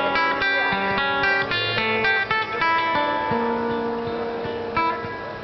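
Acoustic guitar playing the wordless ending of a song: a run of plucked and strummed chords, then a chord left ringing and slowly fading, with one more pluck near the end.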